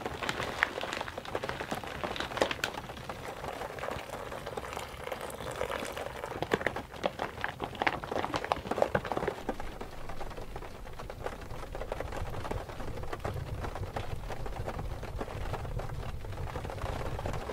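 Steady rain falling on a wooden shed, full of small ticks, with hot water poured from a pot into a dehydrated meal pouch at the start. A low rumble joins in about halfway.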